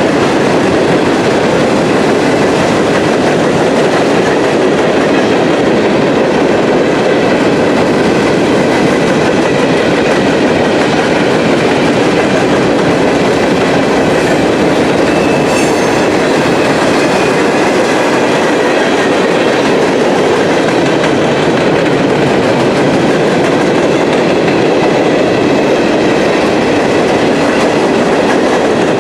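Empty freight cars of a Norfolk Southern coke train rolling past, with a steady, loud wheel-on-rail noise and clickety-clack over the rail joints. A faint high squeal from the wheels runs through it.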